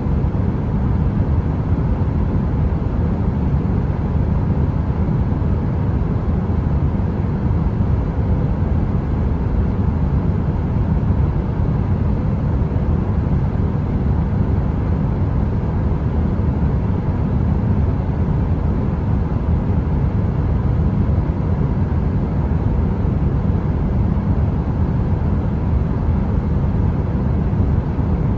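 Heater running with a steady, deep rumbling noise and a faint even hum over it, unchanging throughout.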